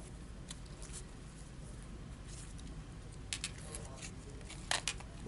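Trading cards being flipped through by hand: scattered soft slides and taps of card stock, with a few sharper clicks near the end, over a low steady hum.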